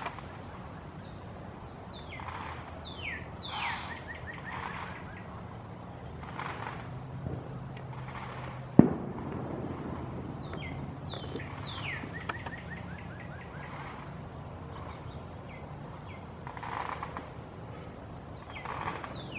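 Birds calling outdoors in repeated series of short down-slurred notes, with a steady low hum beneath. A single sharp bang about nine seconds in is the loudest sound.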